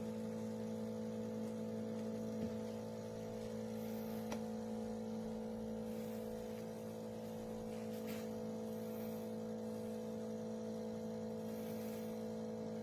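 De'Longhi Rivelia automatic espresso machine's pump humming steadily while dispensing a latte, with a few faint ticks.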